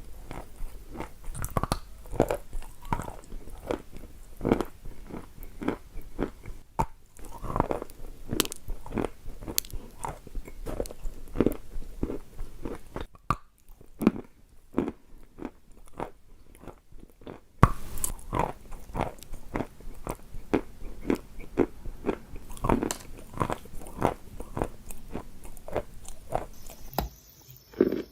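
Repeated wet, grainy crunches of a damp sandy material being crushed, about one to two a second, with a softer stretch about halfway through.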